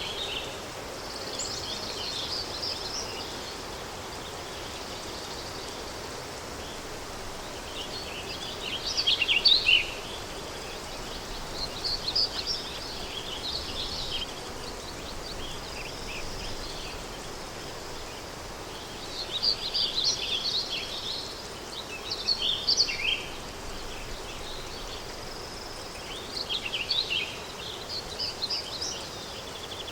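Countryside ambience: songbirds singing in short phrases every few seconds over a steady background of wind.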